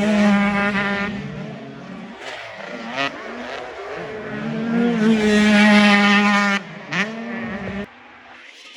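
Racing off-road engines revving high on a motocross track. The sound fades, then builds to its loudest as a machine comes close about five seconds in, cuts back sharply, then drops away near the end.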